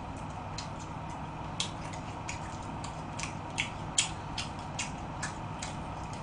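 Mouth clicks and smacks of a person chewing jokbal (braised pig's trotters), about two short clicks a second, irregular, over a faint steady hum. The sharpest click comes about four seconds in.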